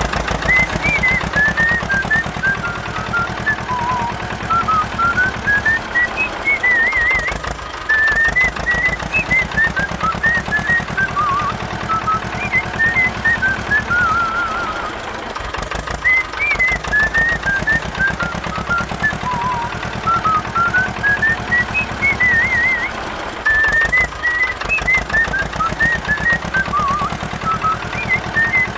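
Small diesel engine running with a rapid, even knocking beat, under a high whistle-like tune that loops about every eight seconds.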